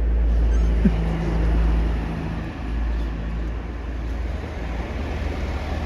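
A motor vehicle's engine running close by: a steady low rumble with a held hum for the first few seconds.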